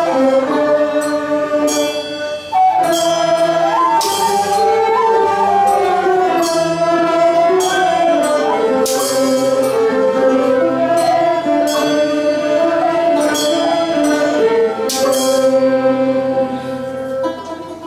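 Nanguan ensemble music with singing: a slow, sustained melody line gliding between notes over the ensemble, punctuated by sharp percussive strikes every few seconds.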